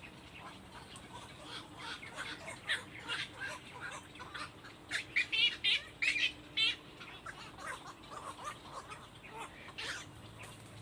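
Birds calling: a run of short chirps and squawks, with a cluster of louder, warbling calls about five to six and a half seconds in.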